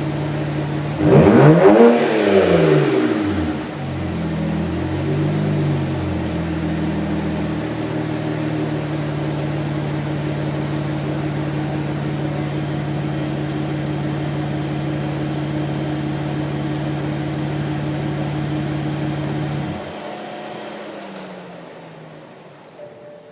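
BMW 335i E92's turbocharged straight-six with the muffler deleted, idling, revved sharply once about a second in and blipped lightly twice more, then settling back to a steady idle. Near the end the engine is switched off and the sound cuts out abruptly.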